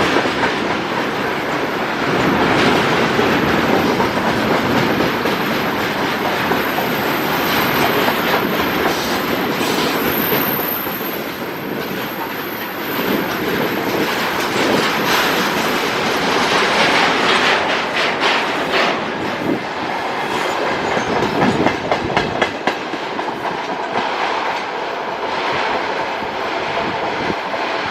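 Freight train wagons rolling past at speed, wheels clicking over the rail joints in a continuous clickety-clack, with a thin high whine through the first half.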